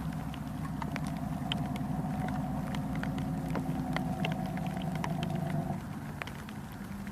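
Heavy rain falling in scattered pattering drops, over a steady engine-like hum that stops about six seconds in.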